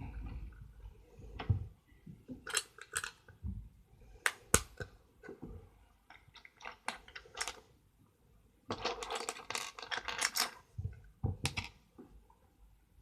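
Plastic Lego pieces being handled: a run of sharp separate clicks and knocks, with a burst of rattling clatter about nine seconds in.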